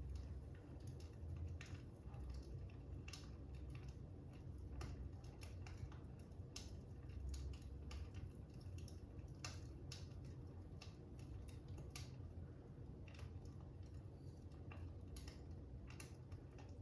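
Crackling fire: irregular sharp pops and crackles, roughly one a second, over a low steady rumble.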